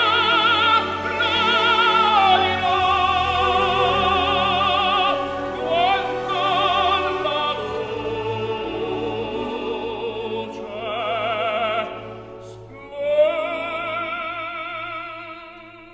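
An operatic aria: a trained solo voice sings long held notes with wide vibrato over orchestral accompaniment. About 13 seconds in it swells on a rising note, then the phrase eases off and grows quieter near the end.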